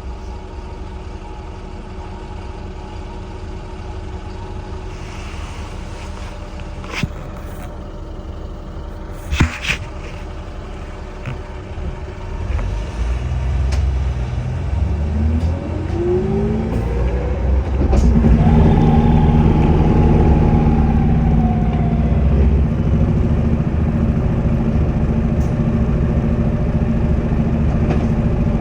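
Volvo B5LH hybrid bus pulling away: after a quieter stretch with a couple of sharp knocks, a whine rises in pitch and the diesel engine comes in loud. Its turbo whistles and then slowly falls in pitch, and the engine keeps running hard to the end.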